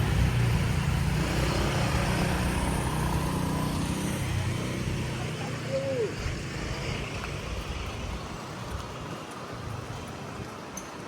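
A motor vehicle driving past, its low engine and road rumble fading away over several seconds. A brief high chirp is heard about six seconds in.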